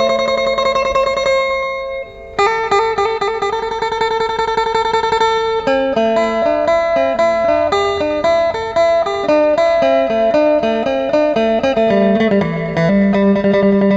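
Amplified plucked string instrument, electric-guitar-like, playing a fast melody of rapidly repeated notes over a held low note, with a short break about two seconds in.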